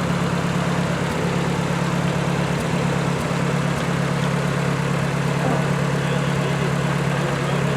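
Ford 600 tractor's four-cylinder engine running steadily at idle.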